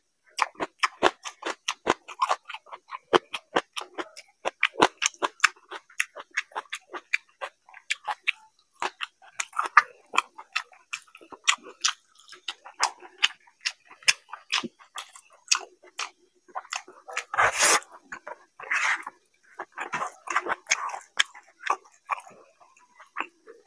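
Close-miked chewing of a mouthful of fried rice and fish curry eaten by hand, a quick, uneven run of wet smacks and clicks, with one louder noise about seventeen seconds in.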